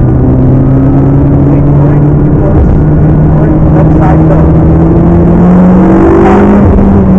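McLaren MP4-12C's twin-turbo V8 pulling hard under acceleration on track, its note climbing steadily in pitch, with a brief break about two and a half seconds in, over road and wind noise.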